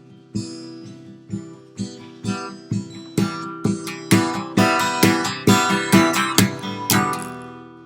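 Strummed acoustic guitar playing an instrumental ending, the strokes coming quicker and louder until a final chord about seven seconds in that rings out and fades.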